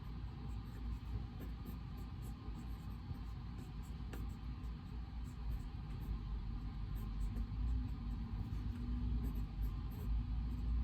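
Writing on paper: many short scratching strokes, over a steady low room rumble that grows a little louder in the second half.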